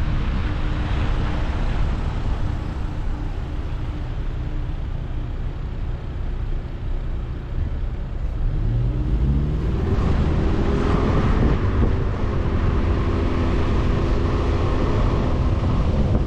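Road rumble from a moving vehicle. About eight seconds in, an engine speeds up, its pitch rising, with a step about ten seconds in like a gear change. It then runs steadily.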